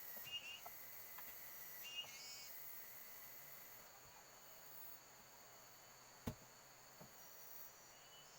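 Faint, steady high-pitched chorus of forest insects such as crickets, with two short chirps in the first two seconds. A single sharp click or knock sounds about six seconds in.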